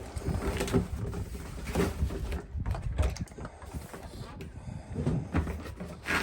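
Metal fuel-line banjo fittings and tools being handled, with scattered light clicks and knocks over a low background rumble.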